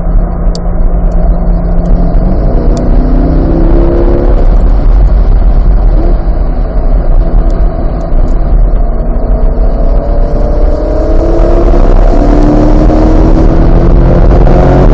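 Chevrolet C8 Corvette's V8 under hard acceleration, its pitch climbing steadily, with a step after about two seconds and a long rising pull through the second half, over a constant deep rumble.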